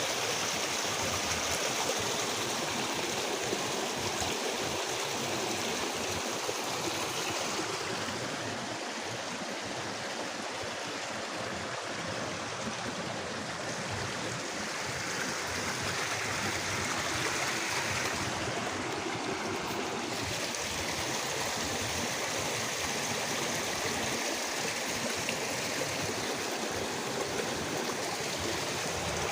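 Steady rushing water, an even hiss with no distinct events; the high end thins somewhat for a stretch in the middle.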